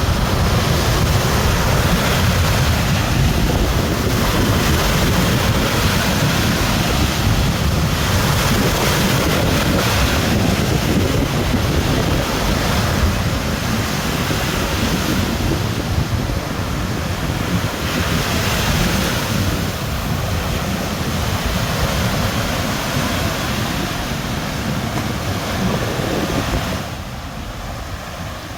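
Ocean surf breaking and washing up the beach, with wind buffeting the microphone; it eases somewhat near the end.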